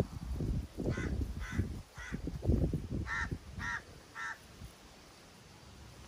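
A bird calling six short calls in two sets of three, the second set louder, over gusts of wind buffeting the microphone.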